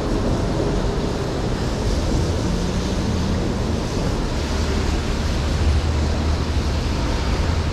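Steady city street traffic noise: a continuous low rumble of passing vehicles under an even hiss.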